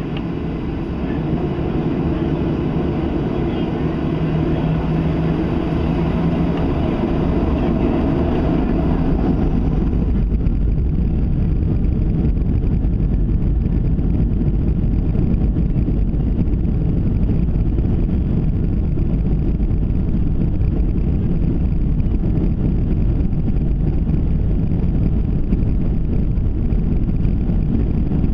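Cabin noise of a Boeing 737-700 on takeoff, heard from a window seat: the CFM56 turbofans run at high thrust under a dense, steady rumble. About ten seconds in, the higher part of the sound falls away and a deep low rumble carries on.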